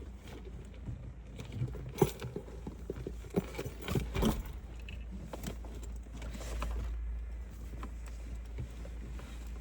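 Clicks and knocks of someone getting out of a parked car and handling things, a cluster of sharp knocks in the first half, then a steady low rumble.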